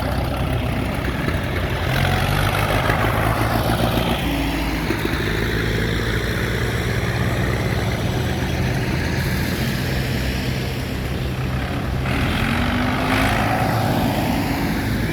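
Tractor engines running as the vehicles of a road run drive past one after another. A steady low engine hum goes on throughout, with a few passing engines rising and falling in pitch as they go by.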